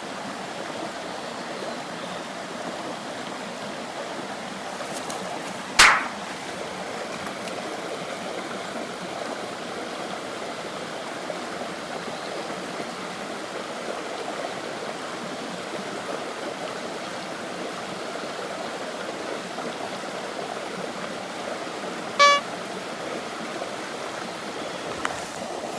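Steady rush of running stream water. A single sharp click or snap comes about six seconds in, and a short horn-like beep comes about four seconds before the end.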